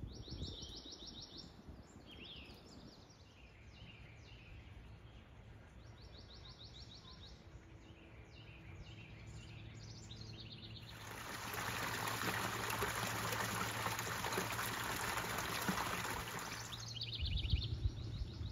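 Small birds chirping in short, quick repeated trills. In the middle, about six seconds of loud, even rushing noise starts and stops abruptly.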